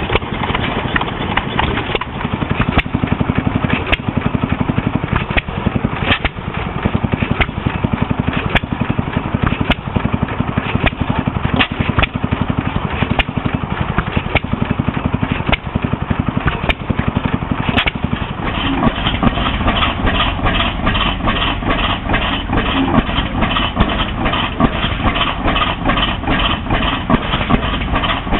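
Old engines running steadily with a regular beat. About two-thirds of the way through, the sound changes to a faster, evenly pulsing engine beat of roughly three strokes a second.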